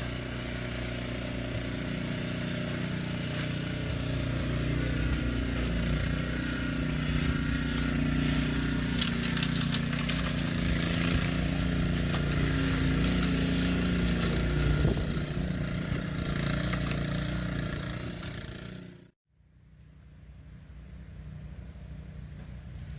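Snow blower's small gasoline engine running steadily while it clears snow. About nineteen seconds in the sound cuts off abruptly, leaving a much quieter outdoor hush.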